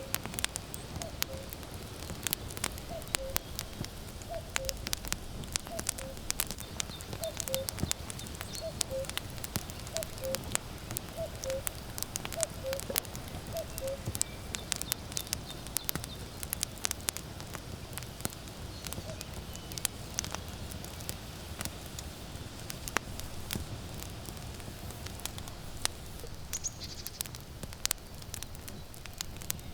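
Burning firewood crackling and popping with constant sharp snaps. Over it, a common cuckoo calls its falling two-note "cuck-oo" about once a second through the first half, then falls silent.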